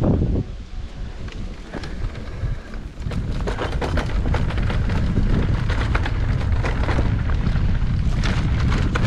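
Wind buffeting the microphone over the rumble and rattle of a mountain bike riding over a rough trail, with many small clicks and knocks; it gets louder and steadier about three seconds in.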